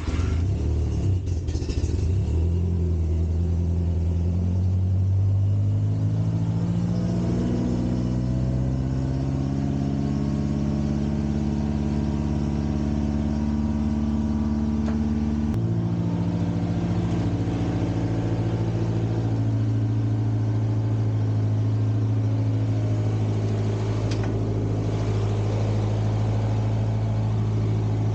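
A 1960s Kalmar baggage tractor's Volvo four-cylinder gasoline engine running just after starting: its speed creeps up for about fifteen seconds, then drops suddenly and settles into a steady idle.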